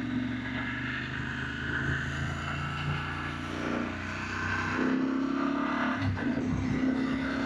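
BMW F900GS parallel-twin engine running, with a steady tone that changes and turns uneven about five seconds in.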